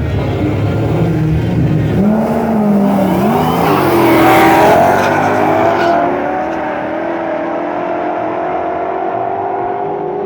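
Drag-racing cars accelerating hard: the engine note climbs in pitch and peaks in loudness about four to five seconds in, then settles into a steadier, quieter drone.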